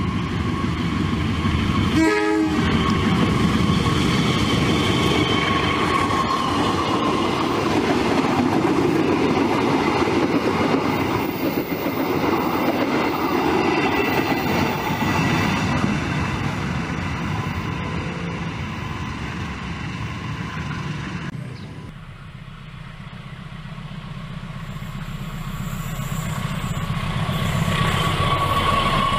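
Indonesian diesel-electric locomotives hauling passenger and baggage cars past close by: engine and wheels rumbling, with clickety-clack over the rail joints. The locomotive horn sounds, held tones early on and again near the end.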